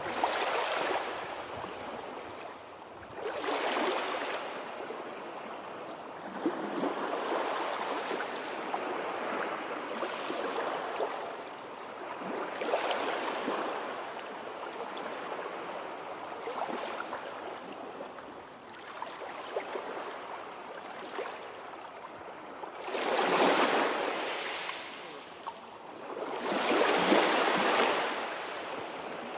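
Sea waves washing onto the shore, the surf swelling and fading every few seconds, with the two loudest breakers near the end.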